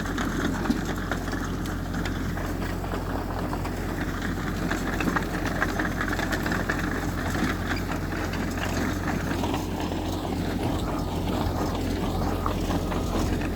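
Heavy diesel machinery engine running steadily, with a constant low drone and no marked revving.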